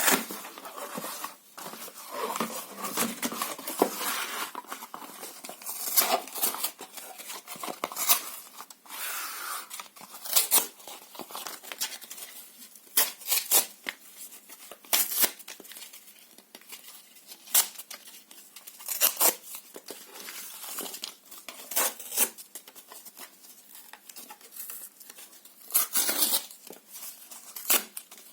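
Paper being torn in a series of short, sharp rips, one every second or two, with softer crinkling and rustling between them.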